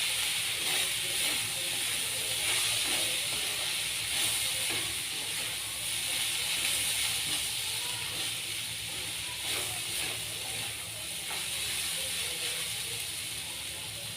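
Minced chicken with onions and spices sizzling steadily as it fries in hot oil in a pan.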